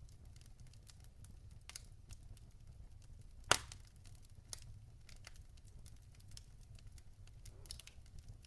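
Wood fire burning in a fireplace, logs crackling with scattered small pops and one loud sharp pop about three and a half seconds in, over a steady low rumble.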